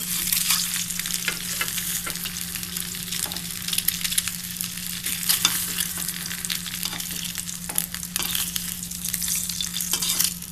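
Eggs coated in salt and turmeric sizzling and crackling in hot oil in a pan, with a utensil scraping and tapping against the pan as they are turned.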